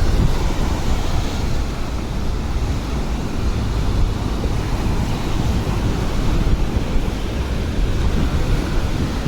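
Atlantic surf breaking, with wind buffeting the microphone: a steady rush of noise, heaviest in the low rumble.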